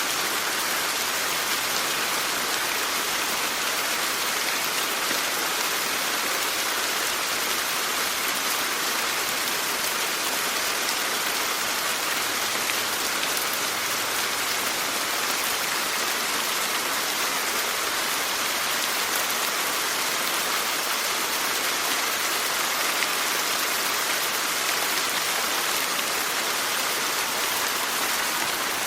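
Steady, even rainfall, a dense hiss of drops hitting a surface, with no thunder and no rise or fall in strength.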